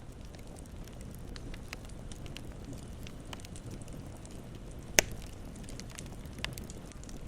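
Campfire burning with a steady low rumble and scattered small crackles, and one loud sharp pop about five seconds in, followed by a smaller pop.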